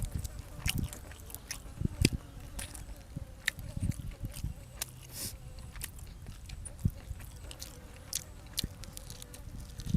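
A person eating close to the microphone: irregular bites and chewing, heard as a scatter of short wet clicks.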